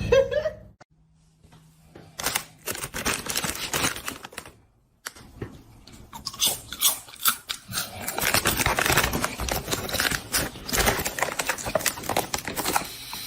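Irregular crunching, crackling and tearing noises of something being chewed or torn, broken by a brief silence about five seconds in.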